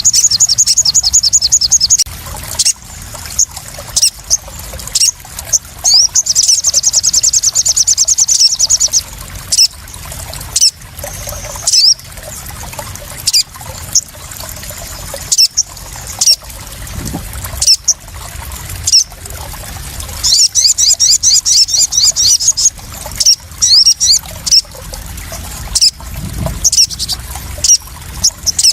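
Splashing, trickling water with frequent sharp drips and splashes, and a small songbird, the sogon sunbird the lure is made for, giving short high chirps and three long, very rapid high trills: at the start, about six seconds in and about twenty seconds in.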